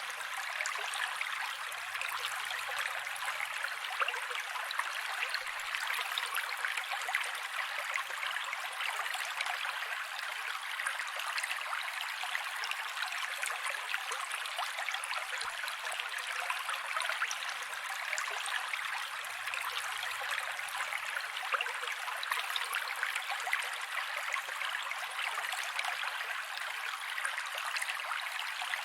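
Mountain creek water running over rocks: a steady, unbroken rush and babble, bright and hissy with almost no low rumble. The same stretch of recording repeats about every 17 seconds.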